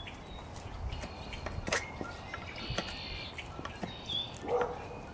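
Scattered sharp clicks and light knocks of a knife blade working into a piece of wood, with birds chirping in the background.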